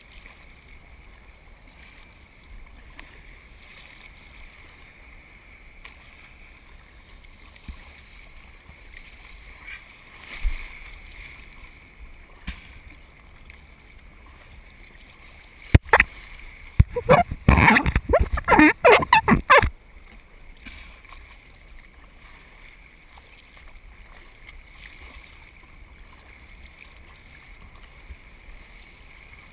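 Surf kayak on the water: a steady low wash of water and wind on the camera. About sixteen seconds in it is broken by nearly four seconds of loud, choppy, irregular noise.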